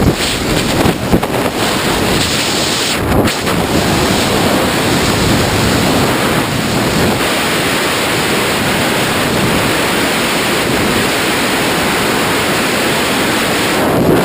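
A loud, steady rush of airstream blowing over the camera microphone, with no break.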